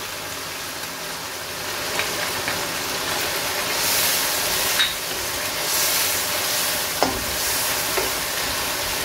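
Chicken pieces frying and sizzling in oil in a wok while a wooden spatula stirs them, with a few light knocks of the spatula against the pan. The sizzle swells louder about four to six seconds in as the ground spices are stirred through.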